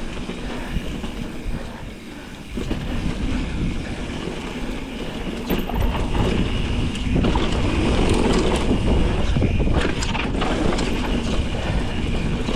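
Mountain bike rolling down a rocky dirt trail: tyre rumble and rattling knocks over rocks, with wind buffeting the microphone. It gets louder about six seconds in.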